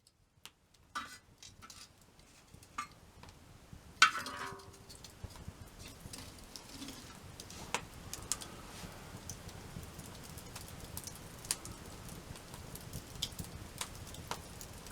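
Wood campfire crackling, with sharp pops and snaps over a faint steady hiss. About four seconds in there is one loud metallic clank that rings briefly.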